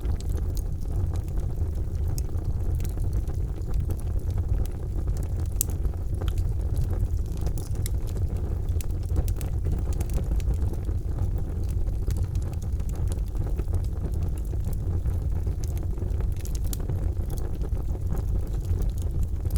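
Charcoal fire burning: a steady low rumble with scattered sharp crackles and pops.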